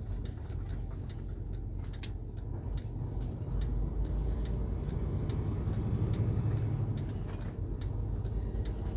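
Semi-truck engine and road drone heard inside the cab while driving, with a regular light ticking of about three clicks a second over it.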